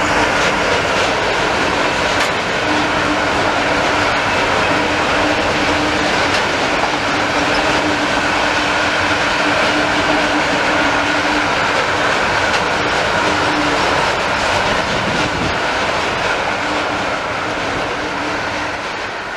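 Long freight train of covered hopper wagons passing at speed: a steady rolling rumble of steel wheels on rail with a steady whine beneath it, fading near the end as the last wagons go by.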